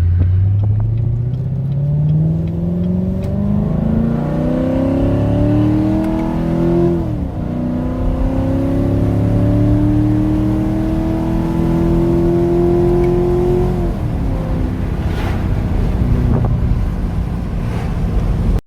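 2016 Corvette Stingray's 6.2-litre LT1 V8 with Dynatech long-tube headers and aftermarket exhaust, accelerating hard from a stop, heard from inside the cabin with the windows slightly down. The engine note climbs through first gear, drops at an upshift about seven seconds in, climbs again through second gear and drops at a second upshift about fourteen seconds in, then holds steadier.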